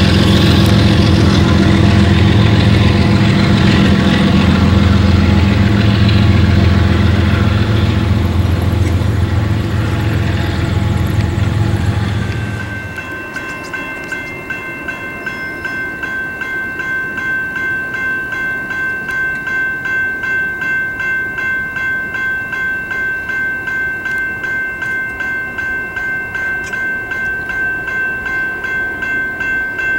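Freight train passing: diesel locomotives run loudly for about the first twelve seconds, then drop away. The cars then roll by with a rhythmic clatter of wheels over the rail joints and a steady high-pitched tone.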